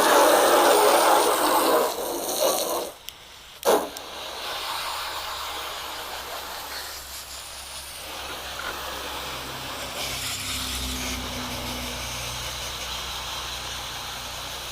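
Garden hose spraying water onto a car's panels to rinse off soap: a loud spray for about two seconds, two short bursts, then a steadier, softer spray.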